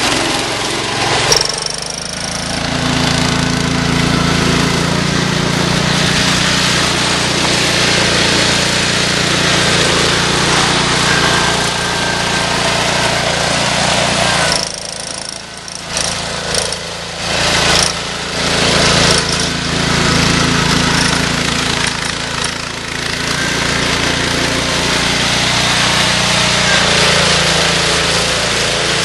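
Cub Cadet 147 garden tractor's 14 hp single-cylinder Kohler K321 engine running loud at high revs, working the tractor. It eases off briefly about halfway through, then comes back up.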